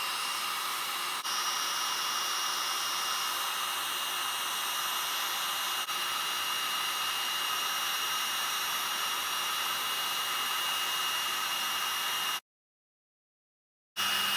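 Embossing heat tool blowing hot air steadily, a fan hiss with a thin high whine, as it melts embossing powder on stamped card. It cuts off suddenly about twelve seconds in and comes back a second and a half later.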